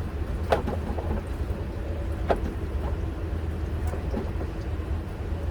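Steady low rumble with two sharp clicks about two seconds apart and a fainter one later, from parts and hand tools being handled.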